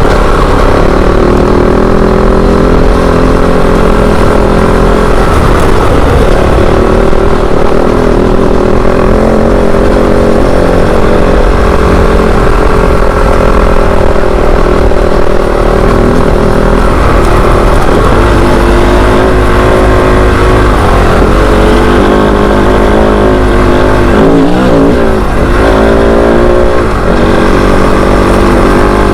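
Kove 450 Rally's single-cylinder engine running steadily as the motorcycle is ridden off-road. In the second half the engine pitch dips and rises several times as the throttle is rolled off and opened again.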